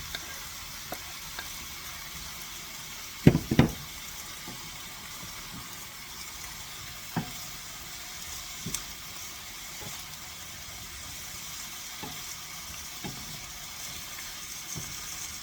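Sautéing zucchini, yellow squash, garlic, cherry tomatoes and capers sizzling steadily in a frying pan. There are two loud knocks a little over three seconds in, and a few lighter knocks now and then afterwards.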